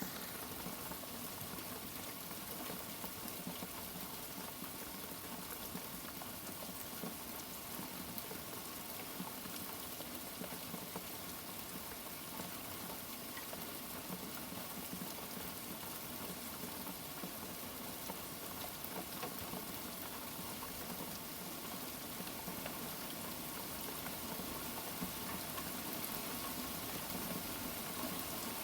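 Steady rain, an even hiss with no thunder rumbles in this stretch.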